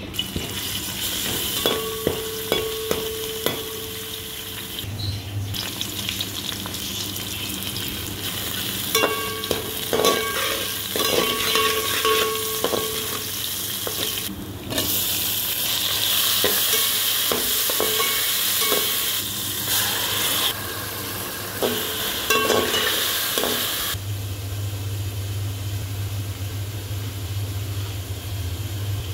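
Onions and ginger sizzling in hot oil in a metal pot while a metal slotted spoon stirs and scrapes, the spoon striking the pot with short ringing clinks. Near the end the sizzling stops and only a steady low hum is left.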